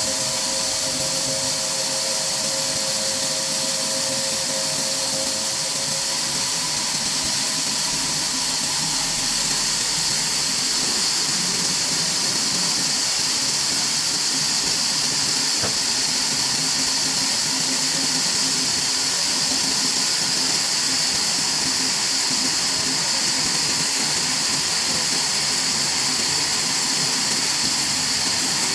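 Woodworking factory machinery running steadily: a continuous hissing whir. A couple of faint humming tones fade out about six seconds in.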